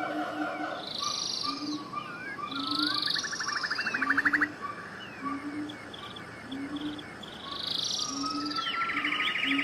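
Several birds singing and calling at once, a busy chorus of chirps, short whistled sweeps and rapid trills. Under it a low short note repeats about once a second.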